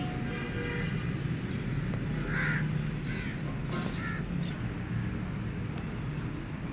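A bird calling in short calls, a few of them about a second apart in the middle, over a steady low background hum.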